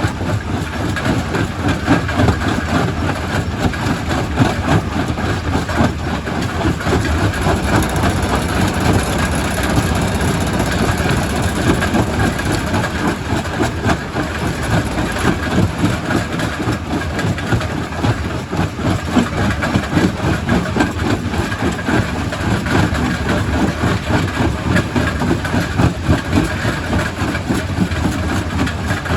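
Primary rock crusher running and crushing stone: a continuous heavy machine drone with a dense, irregular clatter and knocking of rock being broken.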